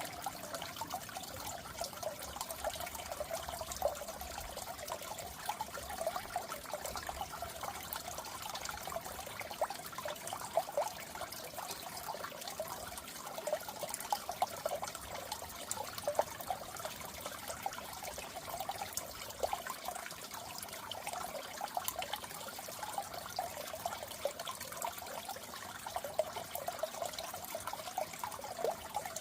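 Goldfish aquarium water trickling and bubbling steadily, a busy patter of small splashes and bubbles with no pauses.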